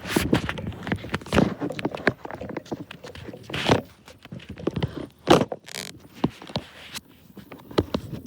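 Irregular knocks, thumps and rustling from a handheld or loosely held camera being jostled on a moving bicycle.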